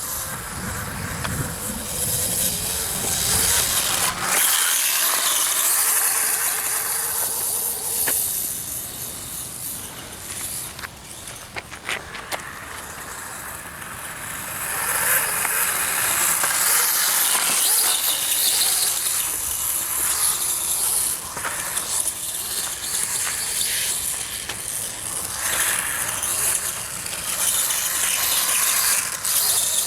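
Electric RC motorcycle with a brushless motor running, the motor whining and the sound rising and falling as it speeds up and slows down.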